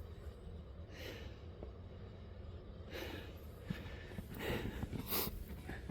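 A person breathing hard, with several loud breathy puffs, over a steady low rumble.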